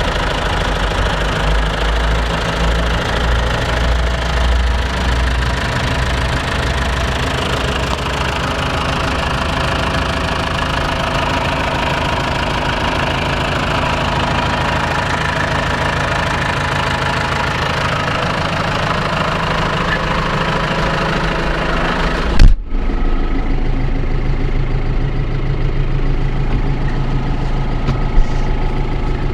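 John Deere 2850 tractor's four-cylinder diesel engine running steadily at idle. About three-quarters of the way through there is a sudden loud thump and an abrupt break, after which the engine continues with a somewhat different sound, and a short click comes near the end.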